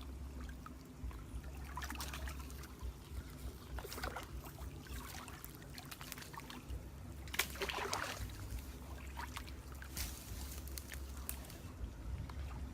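Water splashing and trickling in short bursts every couple of seconds, with small clicks, over a steady low rumble.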